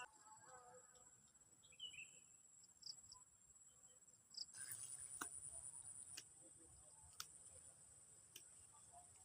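Faint, steady high-pitched trilling of insects such as crickets, louder from about halfway through, with a few short bird chirps early on and several sharp clicks in the second half.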